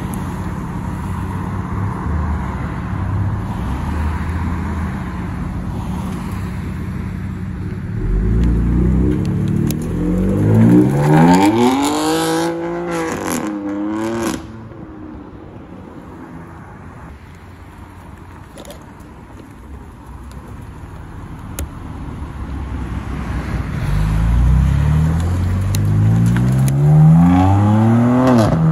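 BMW M4 GTS's twin-turbo straight-six idling, then pulling away hard, its pitch climbing with a gear change in between. After quieter road noise, a second car accelerates hard and its engine rises to the loudest point near the end.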